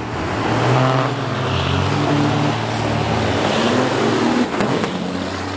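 Semi truck diesel engine running hard under acceleration, its pitch climbing about a second in and again near the end, with a faint high whistle gliding down and back up.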